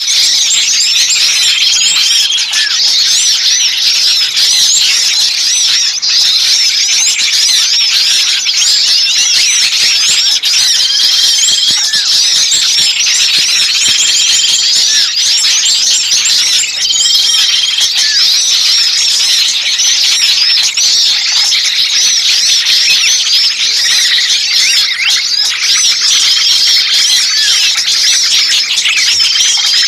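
Dense, noisy chorus of small songbirds chirping rapidly in high squeaky notes, with a short level whistle recurring every few seconds. It is a lure recording of agitated, 'pinched' small birds, used to attract wild birds for trapping.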